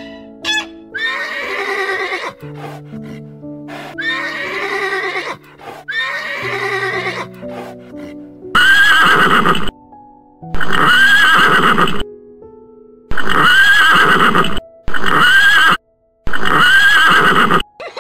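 Horse whinnying again and again over soft piano music: three softer neighs, then five loud ones about a second apart in the second half, each cut off abruptly.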